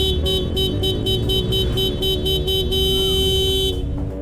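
A horn-like tone beeping in rapid pulses, about four a second, then held for about a second before cutting off, over a steady low rumble.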